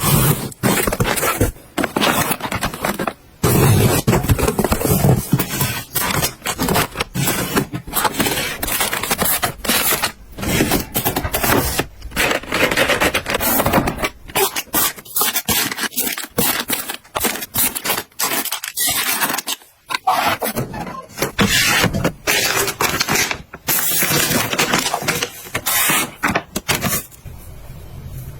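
Close-up handling sounds of objects being moved and set down: repeated scraping with many sharp clicks and knocks, broken by brief pauses.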